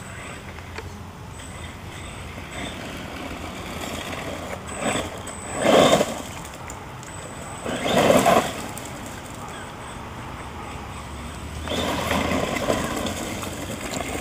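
Redcat Volcano RC monster truck's electric motor driving, with two short loud bursts of acceleration about six and eight seconds in and a longer run from about twelve seconds.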